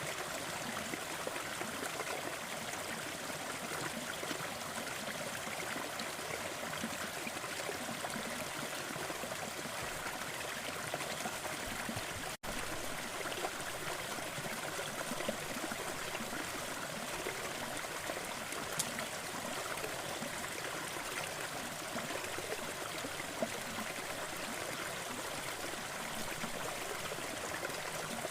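Sleep soundscape of a fireplace over a steady rushing noise bed, with a few faint sharp crackles from the fire. The sound cuts out for a split second about twelve seconds in, like a loop seam.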